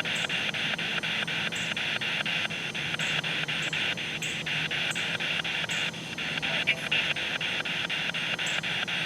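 Spirit box radio sweeping rapidly through stations: a steady hiss of static broken by even clicks about five times a second.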